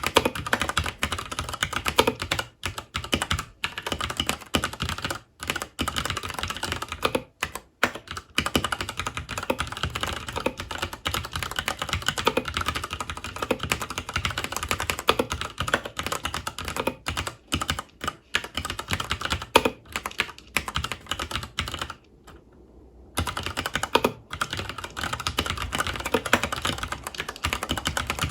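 Mechanical keyboard with Cherry MX Brown switches (FILCO Majestouch 2 Hakua) being typed on continuously in fast, dense keystrokes, with brief pauses and a longer stop of about a second near the 22-second mark.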